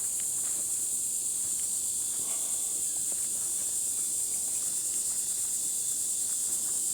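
Steady high-pitched drone of a chorus of insects, with faint footsteps on the trail.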